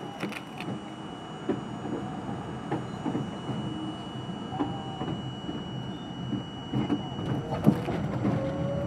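R42 subway train running along the track, with irregular clacks and knocks from the wheels over rail joints above a steady rumble and a thin high whine. It grows a little louder toward the end.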